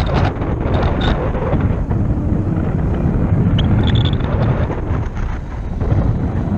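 Wind buffeting a small camera microphone: a loud, steady, low rumble. A brief high tone sounds about four seconds in.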